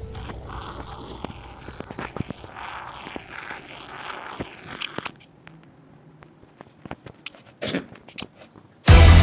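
Scattered small clicks and crackles of Lego bricks being handled and pressed together. Music fades out over the first few seconds, and loud music cuts in suddenly near the end.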